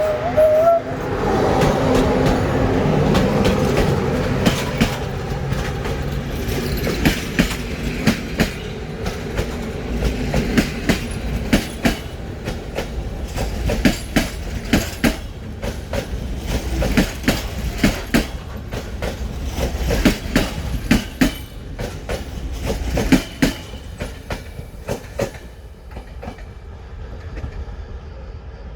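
A passenger train passes close by: the locomotive's running sound in the first few seconds, then a long run of wheel clacks over rail joints as the carriages go by, fading near the end.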